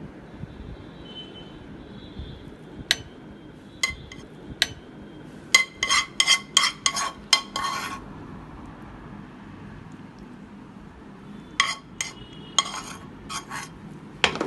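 A utensil clinking and tapping against a plate during plating: single sharp clinks with a short ring, then a quick run of about eight taps, then another cluster near the end.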